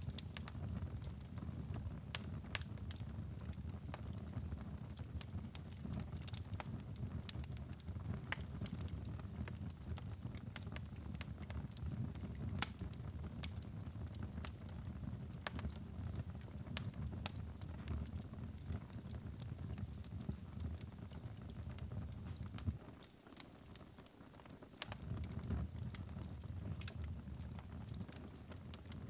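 Wood fire burning in a fireplace: a low steady rumble of flames with frequent sharp crackles and pops from the burning wood. The rumble drops away briefly about two-thirds of the way through, while the crackles go on.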